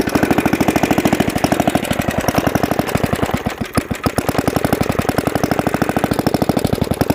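Briggs & Stratton single-cylinder flathead engine running on a water pump, with rapid, even firing pulses. It sags briefly about halfway through, then picks back up.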